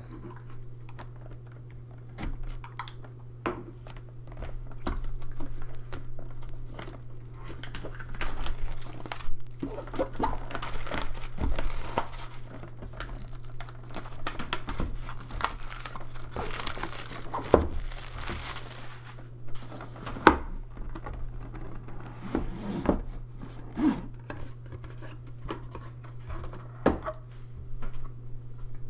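Plastic packaging being crinkled and torn open while a board game box is unpacked, with scattered knocks and clicks of cardboard and components being handled. The longest stretches of crinkling come about eight to twelve seconds in and again around sixteen to nineteen seconds, over a steady low hum.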